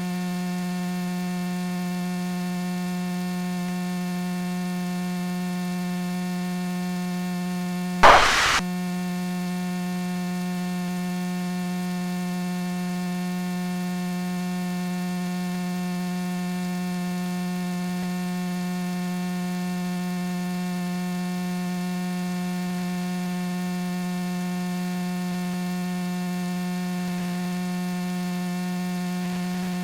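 Steady electrical hum with a ladder of overtones, unchanging in pitch, with a short burst of noise about eight seconds in.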